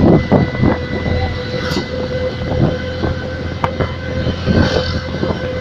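Honda Megapro motorcycle with an add-on electronic sound booster, giving a steady high drone meant to imitate a MotoGP bike, with irregular low thumps under it.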